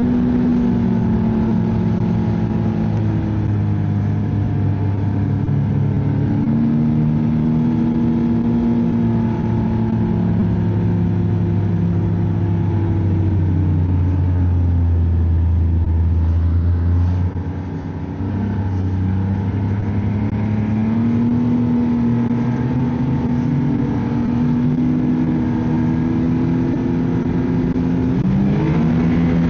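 Ski-Doo snowmobile engine running under way, its pitch slowly falling and rising with the throttle. It eases off briefly about two-thirds of the way through, then climbs again near the end.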